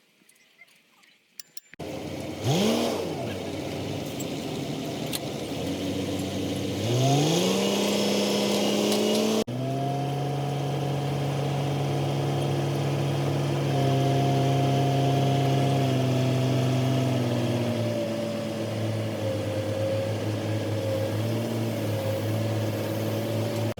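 Heavy machinery starting up: after near silence a motor comes in, its pitch climbs and settles into a steady hum, and the sound changes abruptly about nine seconds in before running on steadily.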